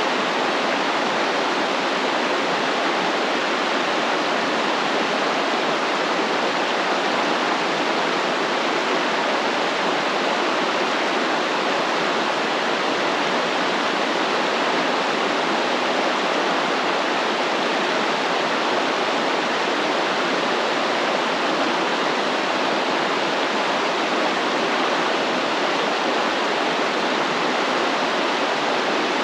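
Stream water flowing, a steady, even rushing with no breaks.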